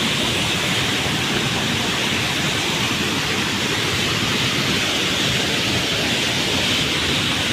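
Waterfall pouring with a steady, even rush of water.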